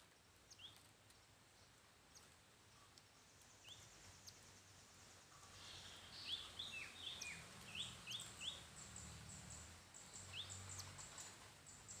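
Faint small-bird calls: short rising chirps, scattered at first and then a quick cluster about six to nine seconds in, with rapid high ticking notes from there on. This is the 'cicuk cicuk' call of the bird known locally as the klik-klik bird.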